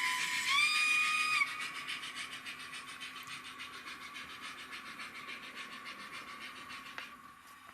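Sound-fitted Rapido OO gauge model of the steam locomotive Lion, its decoder sounding the whistle: a steady tone that bends up in pitch and stops about a second and a half in. Regular steam chuffs run throughout and get steadily fainter, with a click near the end.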